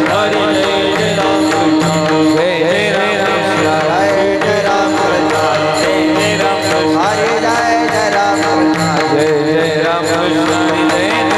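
Warkari kirtan music: devotional singing with mridang drumming over a steady held drone note.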